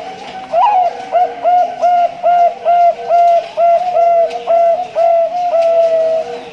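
Male Bangkok-strain zebra dove (perkutut) singing: a rising opening note, then a run of about a dozen short, evenly spaced cooing notes, two or three a second, that stops shortly before the end.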